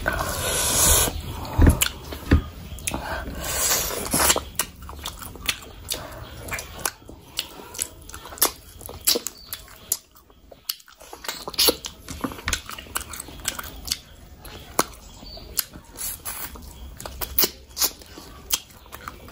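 Close-miked eating sounds: wet chewing, lip smacks and mouth clicks as rice and curry are eaten by hand, with squishing as the fingers mix rice on the plate, loudest in the first few seconds.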